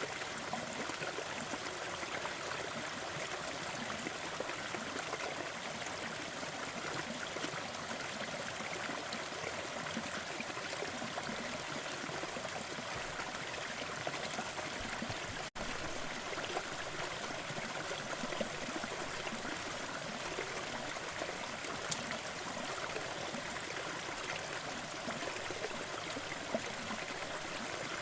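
Waterfall: steady rushing of falling water with splashing and trickling. It cuts out for an instant about halfway through.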